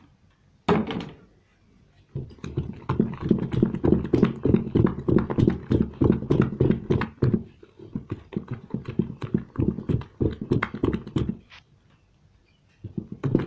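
A stick stirring liquid soap mix in a container, knocking against it in a fast steady rhythm of several strokes a second for most of the stretch, after a single sharper knock about a second in.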